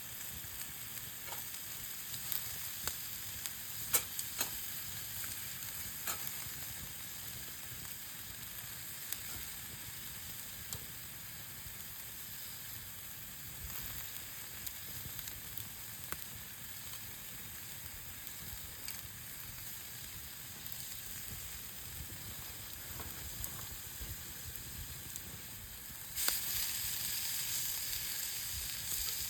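Meat sizzling over a campfire, a steady hiss broken by scattered pops and crackles. The sizzle gets suddenly louder near the end.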